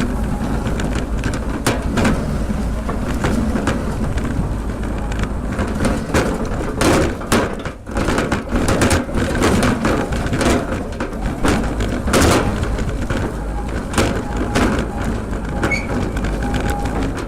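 Home-built electric lawn tractor being driven over rough ground: a steady low rumble with frequent irregular knocks and clatters, thickest in the middle.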